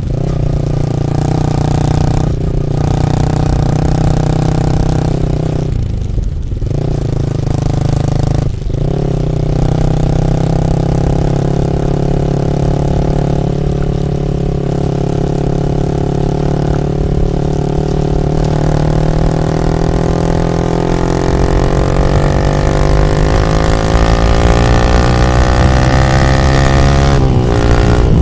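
Yamaha MT-15 V2's single-cylinder engine through an Akrapovic full exhaust system, ridden under load. It breaks off briefly three times in the first nine seconds, as at gear changes, then climbs steadily in revs for a long stretch before dropping sharply near the end.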